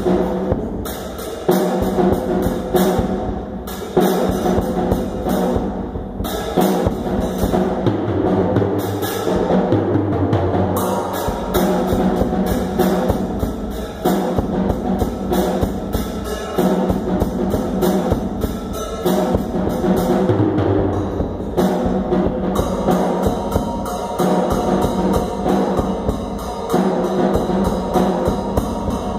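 Drum kit playing a steady, traditional-style rhythm, with pitched instruments and a bass line sounding along with it.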